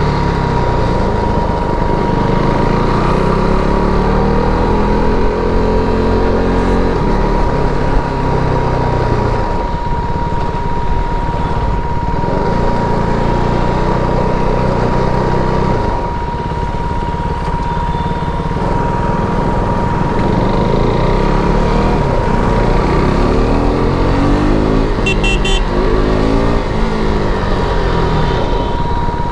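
KTM RC 390's single-cylinder engine on its stock exhaust, ridden hard: the revs climb and drop again and again as it accelerates and shifts through the gears.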